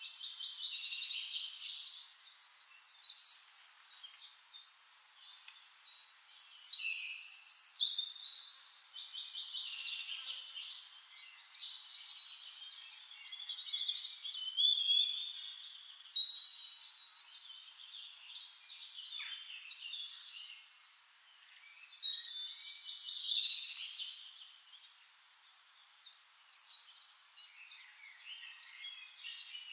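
Songbirds singing in bursts of rapid, high trills and twittering phrases, with quieter chatter between the loudest bursts.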